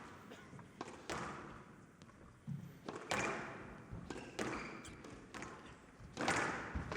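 Squash rally: the ball struck by rackets and slapping off the court walls, a series of sharp cracks roughly every half second to a second, each ringing out in the hall.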